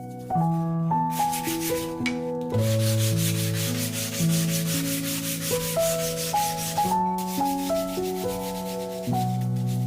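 Wood being sanded with rapid, even back-and-forth strokes, pausing briefly twice, over background music with sustained notes.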